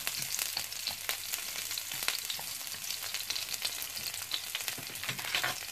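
Crushed lemongrass stalks frying in hot annatto oil in a nonstick pan: a steady sizzle with many small crackles, while chopsticks turn the stalks at first.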